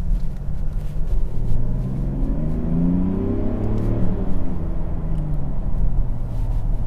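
Mercedes GLS 400d's six-cylinder diesel, with sport exhaust, accelerating in sport mode: the engine note climbs for a couple of seconds, then falls as the revs drop.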